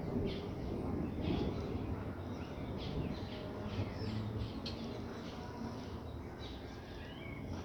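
Birds chirping repeatedly over a low rumble of distant thunder and light rain. The rumble is strongest at the start and slowly fades.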